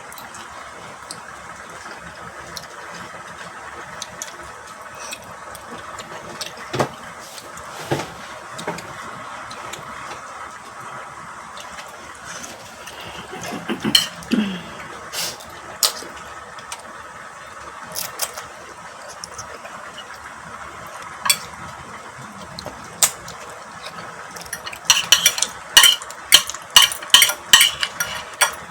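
Eating utensils clinking against bowls and plates. There are scattered single knocks at first, then a quick run of clinks, about two or three a second, near the end, like a spoon scraping around a bowl.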